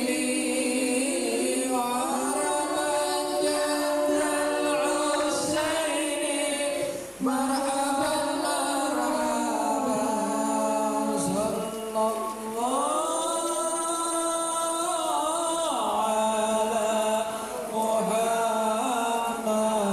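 Group of voices chanting sholawat, devotional Islamic praise of the Prophet, with long held and gliding notes and a brief break about seven seconds in.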